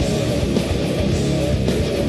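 Loud live heavy rock music: strummed distorted electric guitars over pounding drums and bass, played without a break.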